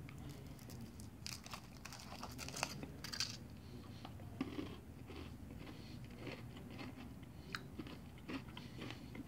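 Faint chewing and crunching of a chocolate liqueur bonbon, with scattered crackles of its metallic foil wrapper being peeled off.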